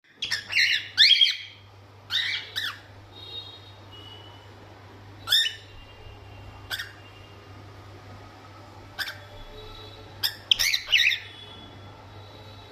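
Parrot chirping in short bursts of quick rising and falling calls, loudest near the start and again about ten seconds in, with fainter thin whistled notes between the bursts.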